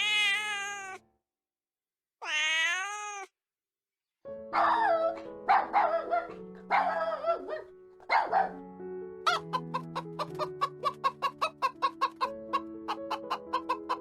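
Two long, wavering animal calls with a break between them, then several shorter calls over background music. The music carries on with a quick plucked beat.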